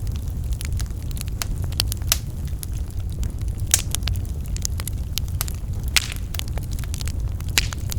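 Wood fire burning in a fireplace: a steady low rumble of flames with frequent sharp crackles and pops, the loudest pops coming about four and six seconds in.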